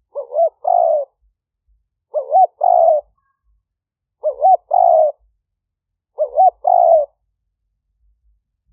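Spotted dove cooing: four phrases about two seconds apart, each a quick rising-and-falling double note followed by a longer held coo.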